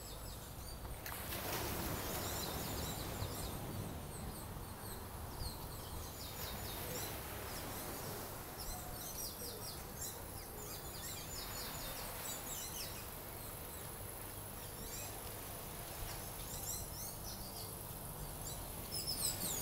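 Birds chirping in short, quick phrases repeated every couple of seconds over a steady low background of sea and wind.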